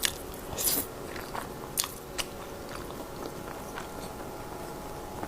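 Close-miked eating: a few sharp, crunchy bites in the first two and a half seconds, then quieter chewing.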